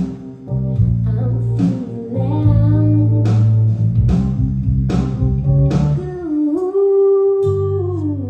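Band music with guitar and bass guitar over regular sharp drum hits, ending on a long held note that slides down in pitch.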